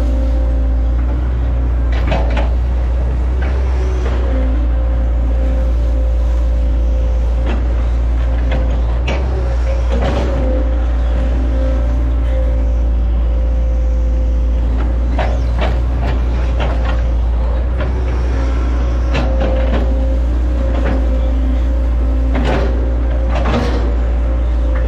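Hitachi Zaxis 110 excavator's diesel engine running steadily with a constant whine, broken by short knocks and clatter every second or two as the machine works.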